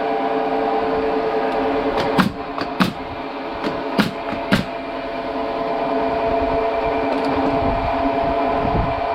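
Workshop machinery running with a steady hum, with several sharp knocks about two to five seconds in.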